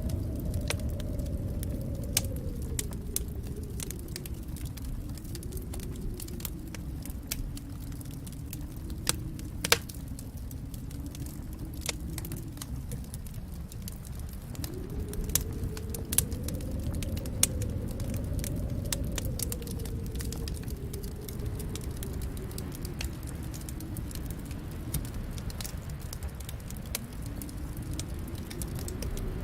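Fireplace fire crackling: a steady low rumble of the flames that slowly swells and eases, with frequent sharp pops and snaps, a few louder ones about ten seconds in and around sixteen to eighteen seconds.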